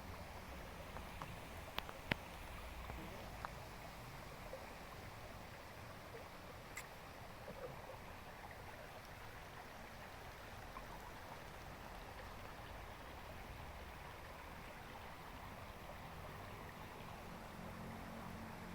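Steady rush of flowing river water, with a few sharp clicks about two seconds in.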